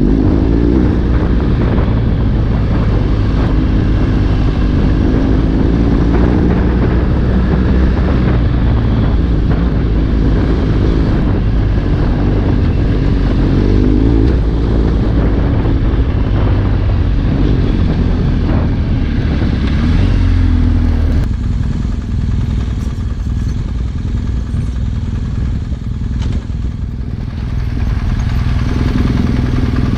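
Trail motorcycle engine running on a dirt track, its pitch rising and falling with the throttle, with clattering from the rough ground. About two-thirds of the way through the throttle eases off and the engine goes quieter, picking up again near the end.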